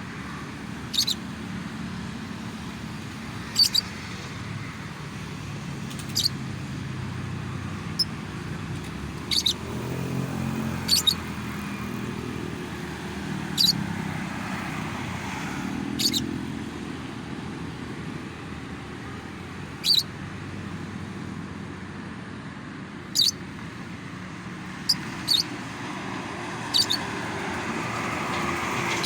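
A lovebird giving short, sharp, high chirps, one at a time at irregular intervals, over steady road traffic noise.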